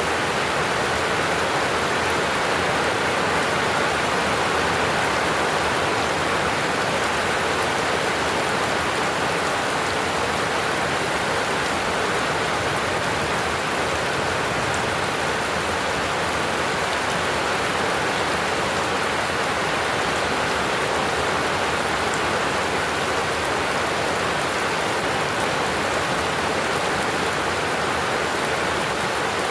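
Heavy rain falling steadily, a dense, even hiss with no breaks or thunder.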